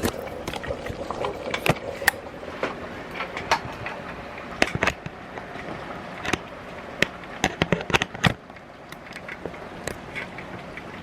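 Scattered clicks and knocks of a camera being handled and set back in place, stopping about eight seconds in, over the low steady bubbling of meat sauce boiling in an electric kettle.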